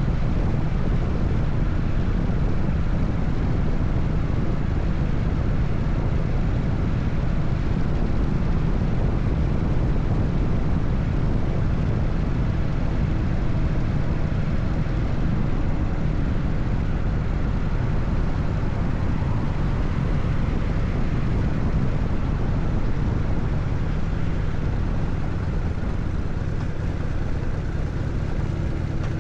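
Harley-Davidson Evolution V-twin engine running steadily as the motorcycle cruises on the highway, over a constant rush of wind and road noise. It eases off slightly near the end.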